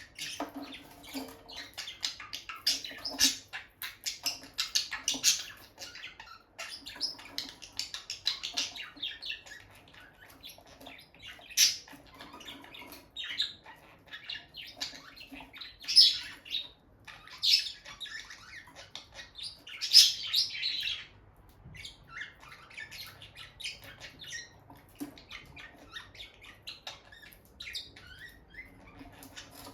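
Peach-faced lovebirds chattering in rapid high chirps. Several loud, shrill squawks come through the middle, then quieter, sparser twittering near the end.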